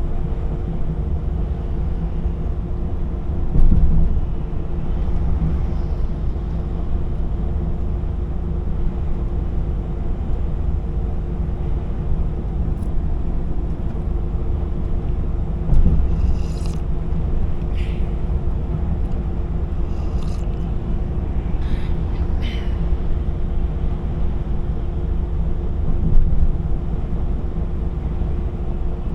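A DAF XF 480 truck driving, with a steady low engine and road rumble. It has three louder thumps, about 4, 16 and 26 seconds in.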